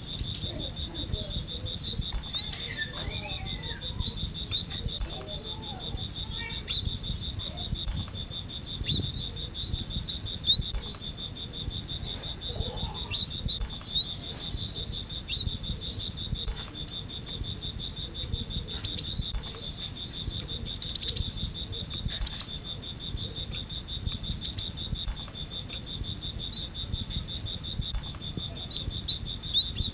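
Cinereous tit (gelatik batu) calling: short, high chirps in quick runs of a few notes, repeated every second or two, over a steady high insect hum.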